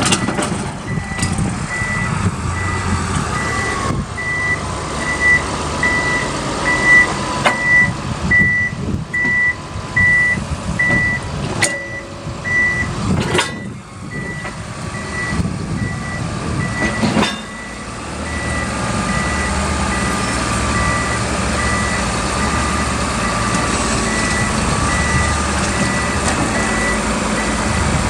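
Komatsu D65WX-17 crawler dozer reversing, its backup alarm beeping steadily about once a second over the running diesel engine. A few sharp metallic clanks come around the middle, and the engine grows louder and steadier in the last third.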